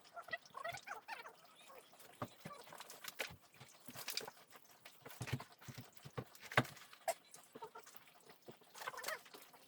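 Irregular light knocks and clicks of building work: timber and tools being handled and set down, with a sharper knock about six and a half seconds in.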